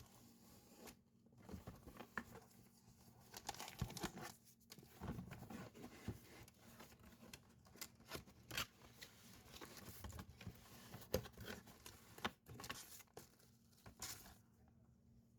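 Faint, irregular crinkling and tearing of packaging being handled, with scattered small clicks.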